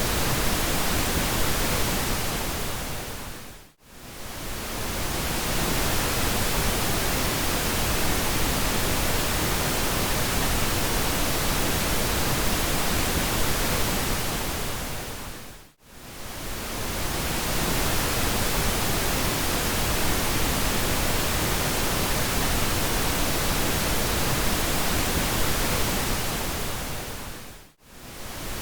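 Steady synthetic pink noise, an even full-range hiss. It fades briefly down to near silence and swells back three times, about every twelve seconds.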